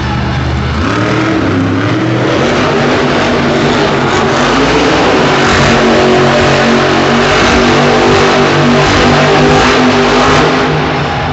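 Monster truck engine revving hard, its pitch climbing and changing as it accelerates, loudest past the middle and easing off near the end.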